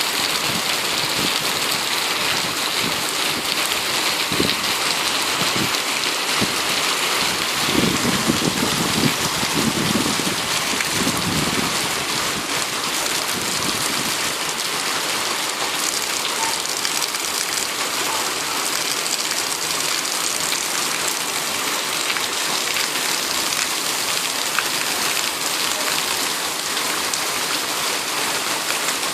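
Steady heavy rain pouring and pattering. A low rumble of thunder swells about eight seconds in and fades after a few seconds.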